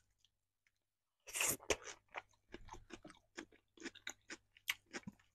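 Person eating casserole close to the microphone. After about a second of quiet comes a first louder bite, then a steady run of short, irregular chewing clicks.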